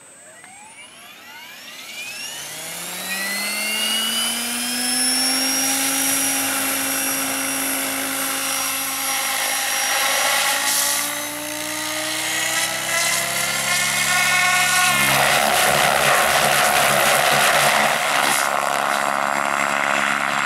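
Electric RC helicopter spooling up: the Scorpion brushless motor and rotor head rise in a climbing whine over the first several seconds, then settle at a steady pitch. About fifteen seconds in a louder rushing rotor noise joins the whine.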